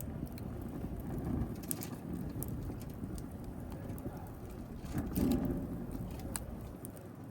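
Wood fire burning in a fireplace: a steady low rush of flames with sharp crackles and pops now and then, the loudest cluster about five seconds in.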